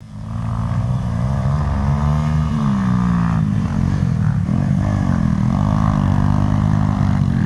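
Dirt bike engine running on a track, its pitch rising and falling as the throttle is opened and closed.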